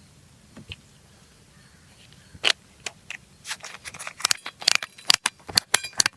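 Packaging being handled during a toy unboxing: after about two quiet seconds, a run of sharp crackles and clicks that comes faster and denser toward the end.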